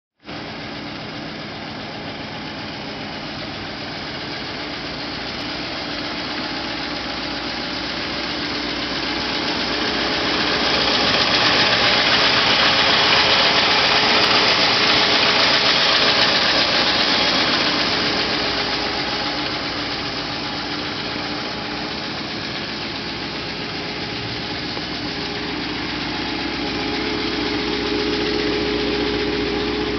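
1958 Chevrolet Impala's V8 engine idling steadily, growing louder for several seconds in the middle and then easing back.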